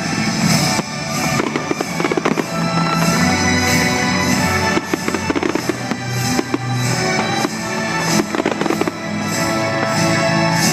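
Fireworks display: many rapid bangs and crackles one after another, over music with sustained low tones.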